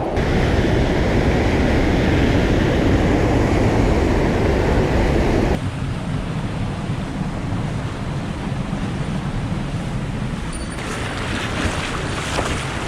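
A swollen mountain stream rushing, a steady dense roar of water. The sound drops abruptly about halfway through and changes again near the end, turning grainier and more splashy.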